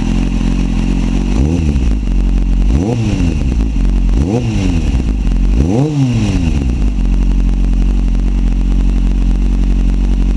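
Kawasaki Z750 motorcycle engine through a Huzar aftermarket exhaust, blipped four times in quick succession, each rev rising and dropping straight back, then settling to a steady idle.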